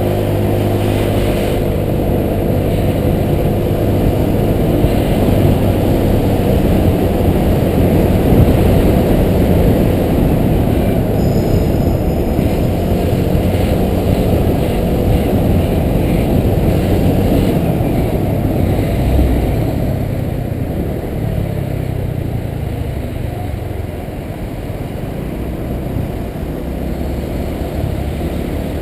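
Honda PCX 125 scooter's single-cylinder four-stroke engine running while riding through traffic. Wind rushes over the microphone through the middle stretch, and the engine's pitch is plainer near the start and again over the last third.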